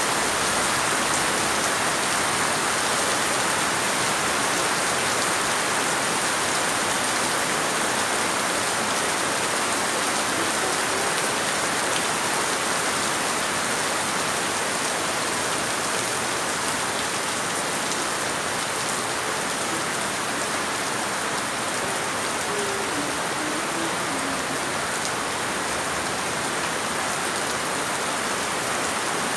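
Steady rain falling and pattering on surfaces, an even, unbroken hiss that holds at the same level throughout.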